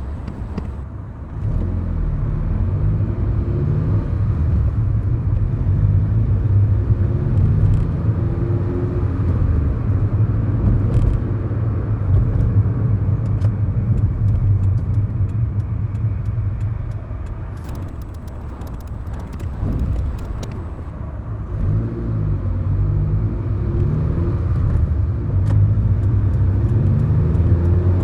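A 2011 Kia Morning's 999 cc four-cylinder SOHC engine, heard inside the cabin while driving. The engine note climbs in pitch as the car accelerates, eases off for a few seconds past the middle, then climbs again near the end.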